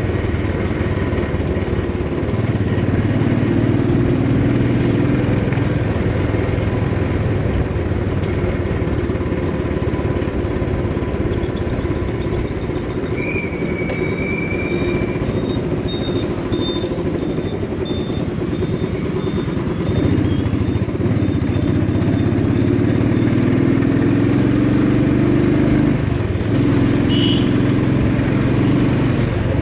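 Motorcycle engine running steadily on the move, its pitch rising and falling with the throttle. A brief high tone sounds about 13 seconds in, and another near the end.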